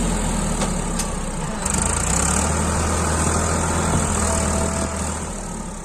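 Farmtrac 60 tractor's diesel engine running steadily, with faint clicks and rattles, fading away near the end.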